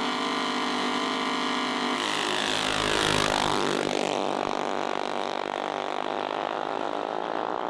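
Small-engine mini bikes running at full throttle in a drag race, a steady high engine note that changes as they pass close by about two to three seconds in, loudest near three seconds, then fading to a quieter engine sound.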